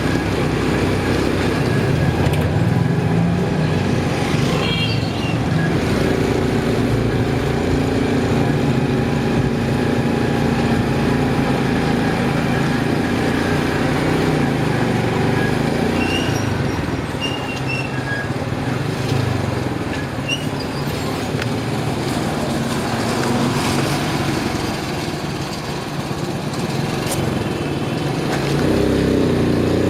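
Motorcycle engine running steadily under way, its note rising and falling a little with speed.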